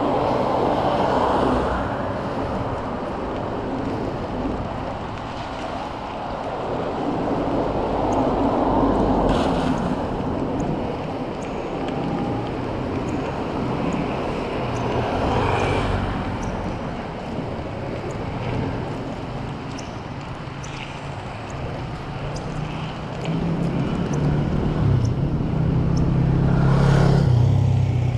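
Road traffic: vehicles passing one after another, rising and falling in several swells, with a deeper engine hum building near the end.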